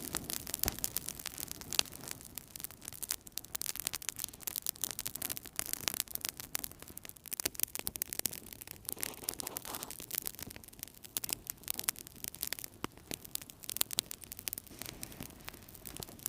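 Wood fire burning in a fireplace, with dense, irregular crackling and small pops over a steady hiss of flames.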